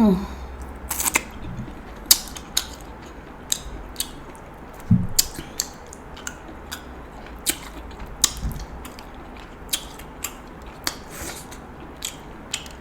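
Steamed Alaskan king crab shell being cracked and snapped apart by hand: sharp, irregular cracks and clicks, about two a second, with eating sounds.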